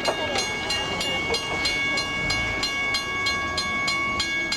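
Railroad grade-crossing bell ringing rapidly, about four strokes a second with a steady ringing tone, over the low rumble of a Long Island Rail Road train.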